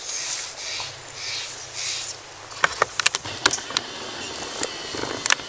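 Soft rustling swishes, then a run of sharp clicks and taps about halfway through, as objects are handled and set out close to the microphone.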